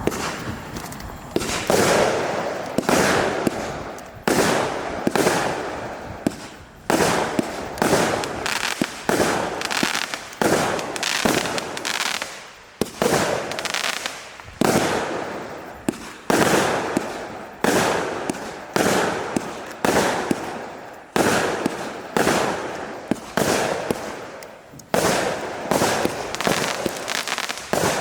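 A 25-shot consumer fireworks cake of 0.8-inch calibre firing shot after shot, about one a second, each a sharp bang followed by a fading noisy tail.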